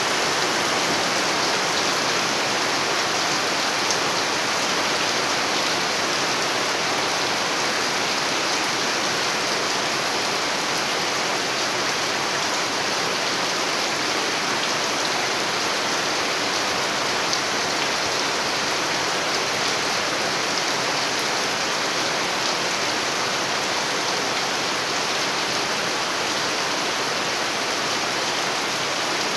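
Steady rain pouring down, splashing into standing muddy water and onto leaves.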